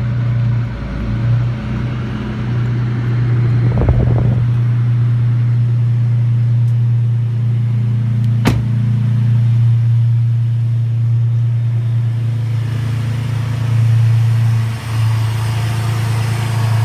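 2007 Dodge Nitro R/T's 4.0-litre V6 idling steadily during an AC recharge, with a single sharp click about eight seconds in.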